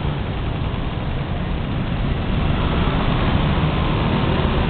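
Scooter engines of many motorcycles in dense city traffic, merging into a steady low drone.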